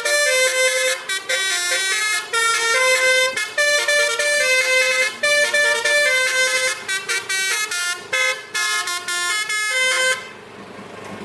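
Truck basuri horn, a set of air-horn trumpets playing a fast melody note by note, cutting off about ten seconds in.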